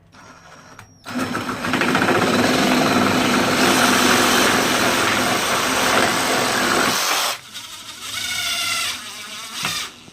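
Power drill driving a screw into a wooden board, starting about a second in and running steadily for about six seconds before it stops.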